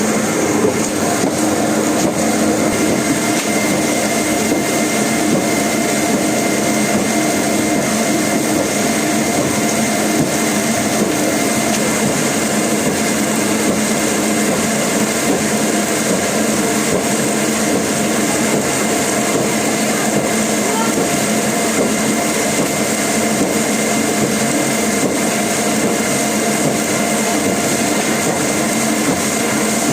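Wood-processing machinery running steadily: a constant motor hum with a high whine, its level unchanging throughout.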